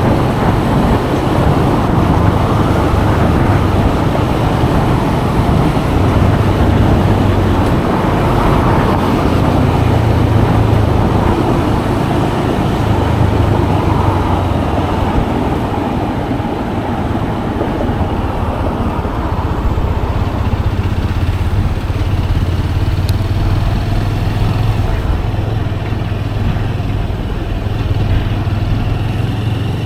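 Motorcycle engine running steadily on the move, with road and wind noise.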